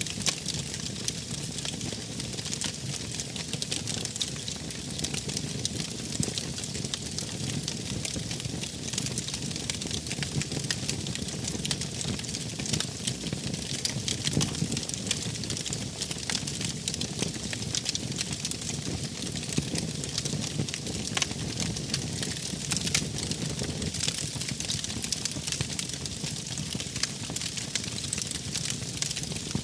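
Wood campfire crackling: many sharp irregular pops and snaps over a steady low rush of the flames.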